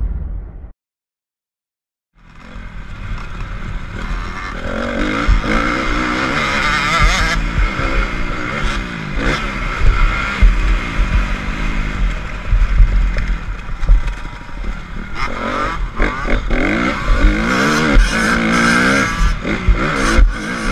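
Honda CRF250's four-stroke single-cylinder engine, heard from the rider's helmet, fading in about two seconds in and then revving up and down repeatedly through the gears as the bike is ridden around a motocross track, with a heavy low rumble under it.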